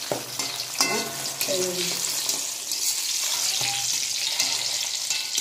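Spice-coated ash gourd slices shallow-frying in oil in a metal wok, nearly done: a steady sizzle, with a metal spatula scraping and tapping the pan now and then.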